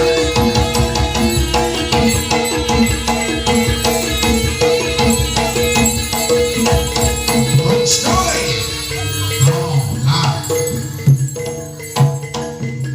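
Live Javanese jaranan (kuda lumping) music: fast, evenly spaced percussion with jingling rattles and a steady held tone over it. The texture thins out near the end, leaving lower pulses and a few sharp loud hits.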